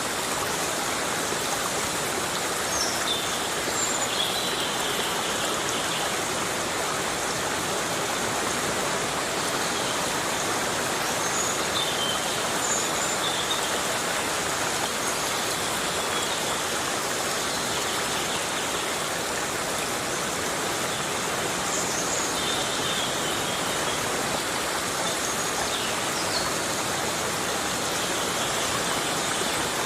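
Heavy rain falling steadily on a forest, an even, constant hiss. A few faint, short high chirps come and go through it.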